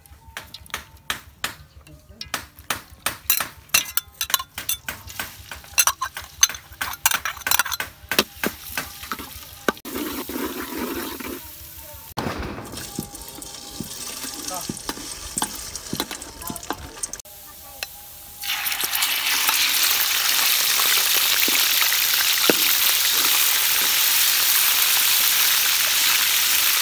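Pork and chopped garlic sizzling loudly and steadily in hot oil in a wok, stirred with a metal ladle; the sizzle starts suddenly about two-thirds of the way through. Before it comes a run of sharp clicks and knocks.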